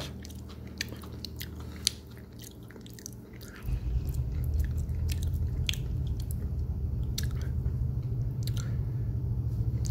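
A person chewing a mouthful of crispy fried chicken sandwich, with scattered crunches and clicks from the mouth. A low steady hum comes in underneath about four seconds in.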